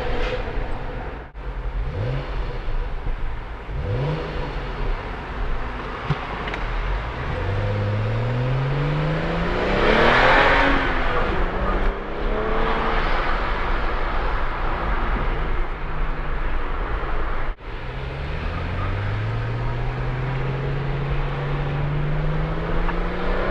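BMW 335xi's turbocharged inline-six accelerating hard, its engine pitch rising steadily through the revs twice. A loud burst of engine noise comes at the top of the first pull, about ten seconds in.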